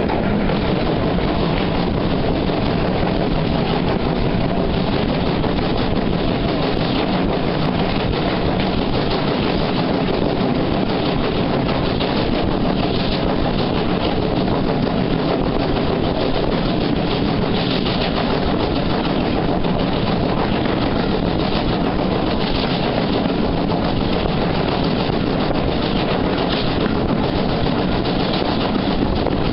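Steady running noise of a train heard from on board a moving carriage: a constant low rumble and rush with wind buffeting the microphone.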